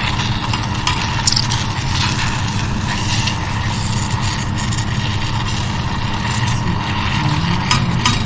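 Spoon stirring and pressing softened blueberries in a saucepan of cooking sauce, with scattered scraping clicks against the pan, over a steady low mechanical hum.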